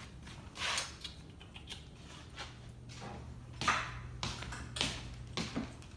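A dog eating, with a few short, scattered chewing and mouthing sounds over a steady low hum.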